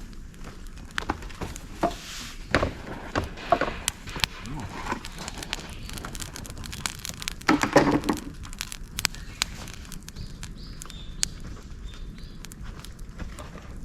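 Wood fire of dried bamboo and twigs crackling in a fire stand, with sharp pops scattered throughout. Louder flurries of crackling come about a quarter of the way in and again just past halfway.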